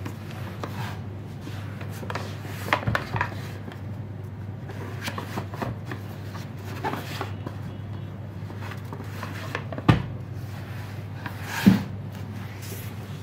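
Steady low hum with scattered light knocks and rubbing or rustling noises; two sharper knocks come near the end.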